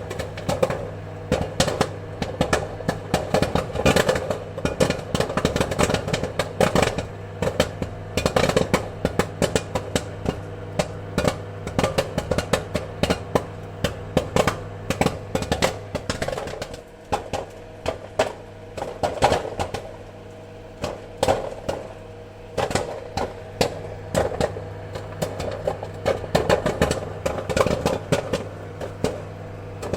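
Popcorn kernels popping in quick, irregular pops, sparser for a while in the middle, over a steady low hum.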